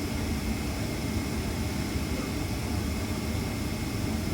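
Steady rumble and hiss inside a Boeing 767's passenger cabin on the ground during pushback, with faint steady high whines over it.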